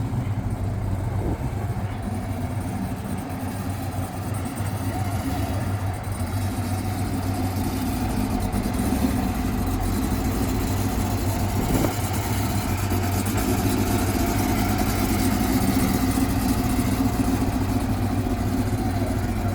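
A car engine running steadily with a low, even hum, getting slightly louder over the stretch.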